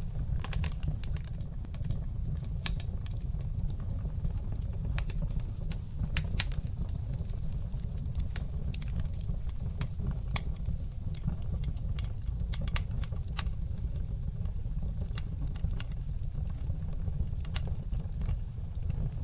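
Wood fire in a fireplace crackling: irregular sharp pops and snaps over a steady low rumble of the flames, with a couple of louder pops about six and thirteen seconds in.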